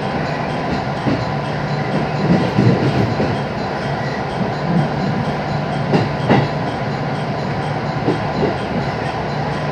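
A JR 221-series electric train running slowly, heard from inside the passenger car: a steady rumble of wheels on rail with a pair of clacks about six seconds in, as the wheels pass over a rail joint.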